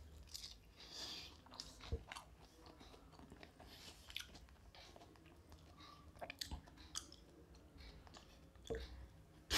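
Faint chewing of a bite of fried, crumb-coated fish finger, with small scattered crunches from its crisp coating.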